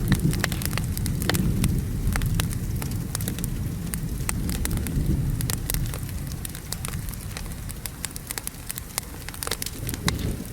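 Wood fire crackling and popping over steady falling rain, with a low rumble of thunder dying away over the first several seconds.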